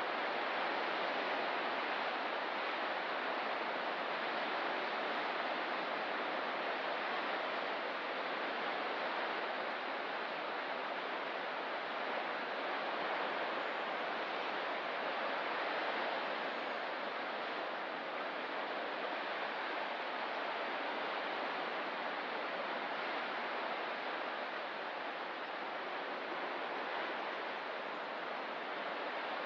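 Ocean surf washing steadily, an even rushing hiss with only slight swells and no distinct wave breaks.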